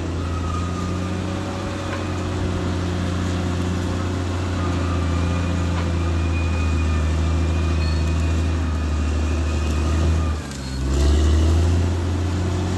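Caterpillar D6R XL bulldozer's diesel engine running steadily under load, with a brief drop in level about ten seconds in, then a short rise in power.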